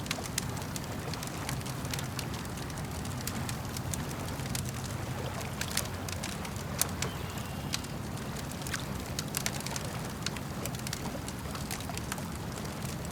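Wood campfire crackling, with irregular sharp snaps and one louder pop a little past the middle, over a steady low wash of lake water.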